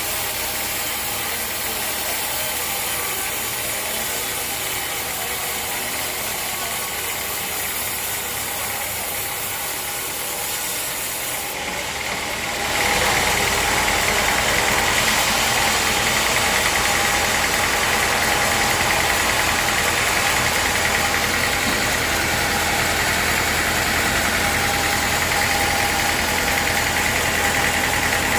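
Sawmill machinery running steadily, getting louder with a higher whine about halfway through.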